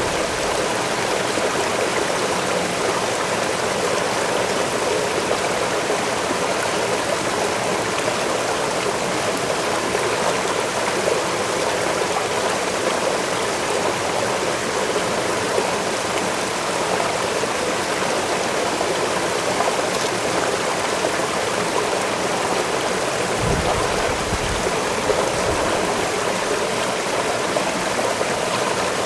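Waterfall rushing steadily, a constant even wash of falling and splashing water. A brief low rumble comes in about two-thirds of the way through.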